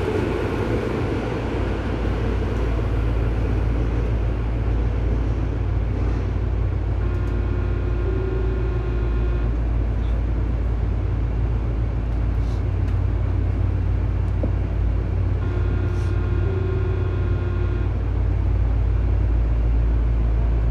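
Interior of a Tobu 9000 series electric train car, standing or running slowly, with a steady low hum from the car's electrical equipment under an even background rush. A fading tone sounds in the first few seconds. Two short clusters of higher tones come about eight seconds apart.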